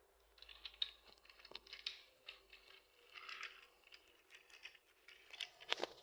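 Faint, scattered clicking, tapping and scraping of wooden toy train pieces being handled and knocked together, with a few sharper clicks near the end.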